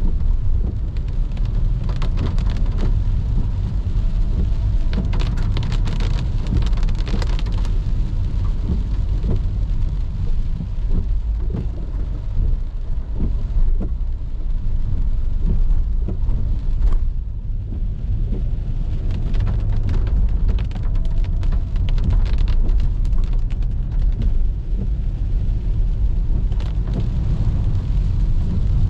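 Rain pattering on a moving car, with many sharp drop impacts over a heavy, steady low rumble from the car driving on a wet road. The drops come thickest in spells a few seconds long.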